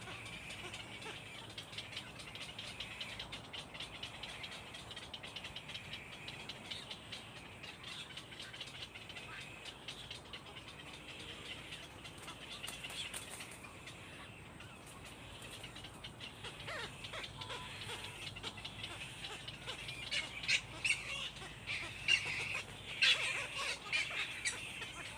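Birds calling with a steady, high-pitched chatter, mixed with rustling. About four seconds before the end comes a run of louder, sharp clicks and calls.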